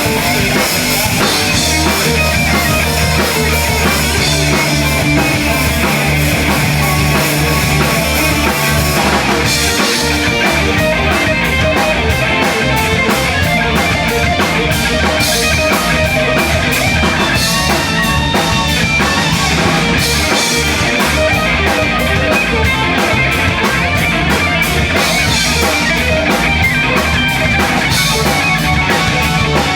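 Live post-hardcore band playing loud: distorted electric guitars over a drum kit. About ten seconds in the drumming turns to fast, even hits that run on through the rest.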